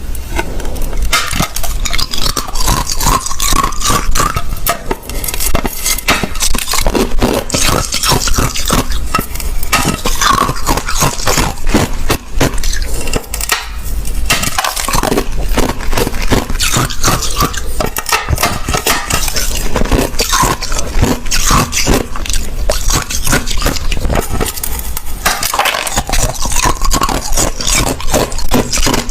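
Close-miked chewing of clear, thin crushed ice: a dense, loud run of crunches and crackles with a few brief pauses.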